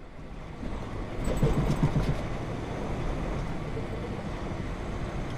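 Steady low rumble of a car's engine and tyres on the road, heard through a dash cam.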